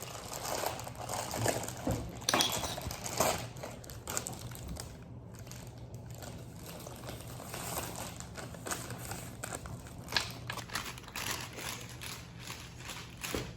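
Baking things being handled as cake mix is added: scattered light clicks and taps against a bowl, with some rustling of the mix bag.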